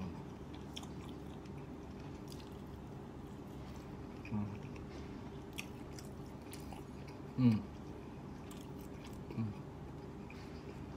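A person eating fried duck and rice by hand: chewing, with soft mouth clicks and smacks, over a steady low background hum. Four short falling 'mm' hums are heard, the loudest about two-thirds of the way through.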